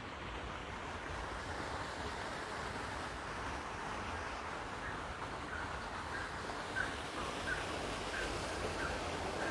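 A bird repeating short chirps, about two a second, from about halfway through, over a steady hiss of outdoor background noise.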